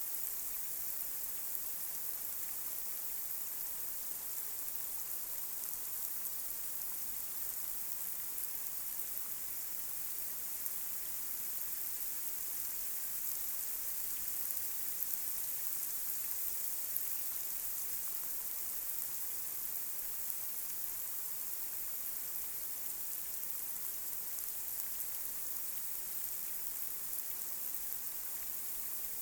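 Light rain falling on a street: a steady, high hiss with faint scattered drop ticks.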